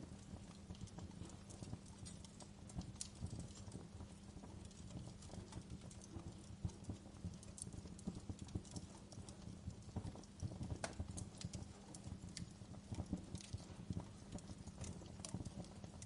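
Wood fire crackling in a fireplace: irregular snaps and pops over a low steady hum.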